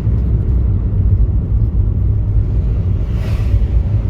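Steady low rumble of a car being driven through city streets, engine and road noise heard from inside the cabin, with a brief hiss about three seconds in.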